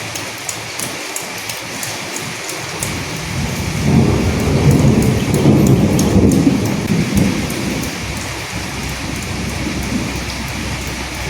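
Steady rain with sharp, close drip taps, and a low roll of thunder that swells up about three seconds in, is loudest in the middle and fades away again before the end.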